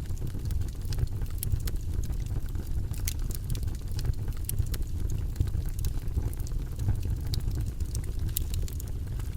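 Campfire crackling: irregular sharp snaps and pops scattered over a steady low rumble.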